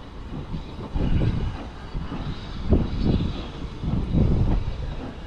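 Heritage steam train carriage rumbling as the train moves off slowly, with a deep thud about every second and a half.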